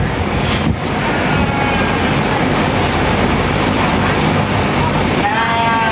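Electric sheep-shearing handpiece running steadily, a dense mechanical whirr; a sheep bleats briefly near the end.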